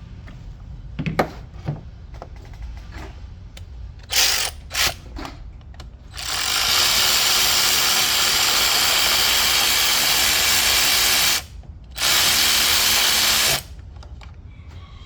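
A cordless power driver spins in two short bursts. It then runs steadily for about five seconds, stops, and runs again for about a second and a half, most likely backing out a spark plug on the Jeep's 2.0 turbo engine. There are a few light tool clicks beforehand.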